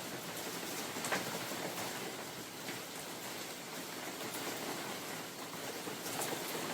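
Steady rain falling in a forest, with scattered individual drops ticking onto leaves and surfaces; one sharper drop lands about a second in.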